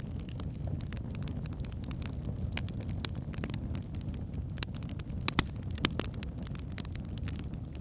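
Log fire burning with a steady low roar and scattered sharp crackles and pops, two of the loudest snapping a little past halfway.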